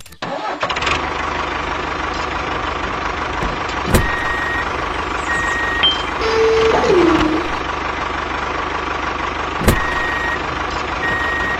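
Mini tractor engine running steadily. Two pairs of short high electronic beeps sound about 4 and 10 seconds in, and a short falling tone sounds about 7 seconds in.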